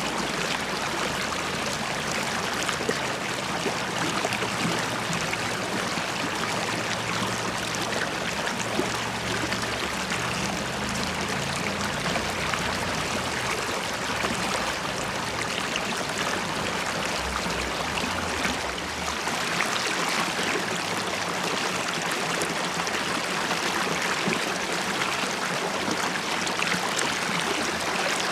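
River water flowing and bubbling, a steady stream sound with a trickling, splashing texture.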